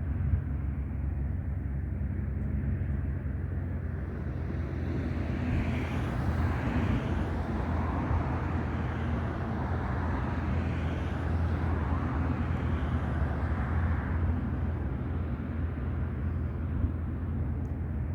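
Light propeller aircraft engine running with a steady drone, swelling for a few seconds in the middle and easing off toward the end.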